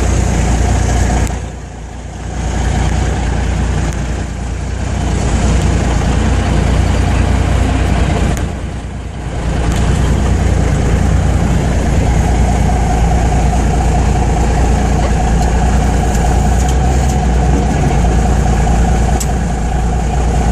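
Large 1952 Peterbilt truck's engine running hard at high throttle during a burnout, with the tires spinning. The level drops briefly twice, about two seconds in and around nine seconds, then holds steady and loud.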